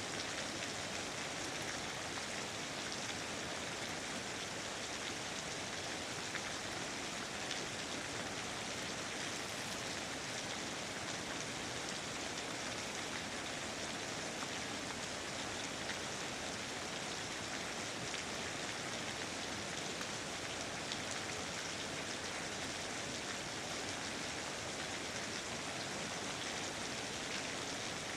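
Steady rain falling, an even hiss of many drops with faint scattered individual drop ticks.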